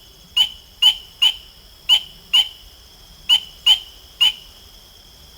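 Frog calling: a series of short, sharp, high-pitched peeps, about two a second with one brief pause in the middle, over a steady faint high-pitched chorus behind.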